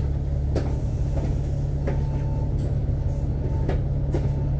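Interior of a KMB Alexander Dennis Enviro500 MMC double-deck bus under way: a steady low engine and driveline drone, with body rattles and clicks every half second to a second.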